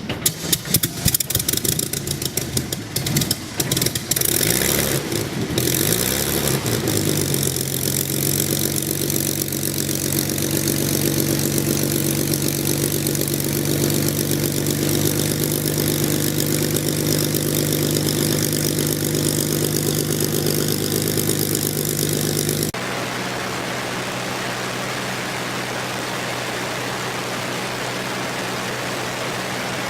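Spitfire Mk IX's Rolls-Royce Merlin V12 engine starting: irregular firing bangs for the first few seconds, then it catches with a rising pitch and settles into a steady idle. About 23 seconds in, the sound changes abruptly to a quieter, steady hum with a hiss.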